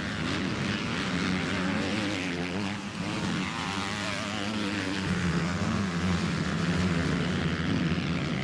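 Several MX2-class motocross bikes racing, their engines revving and falling back continuously, with the pitch rising and dipping as riders work the throttle.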